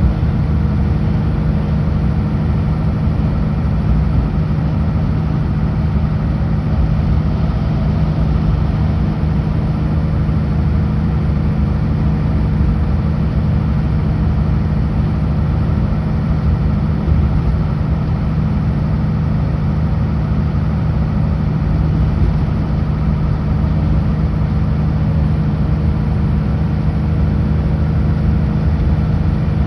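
Kenworth W900L semi truck's diesel engine running steadily while driving, a constant low drone with road noise.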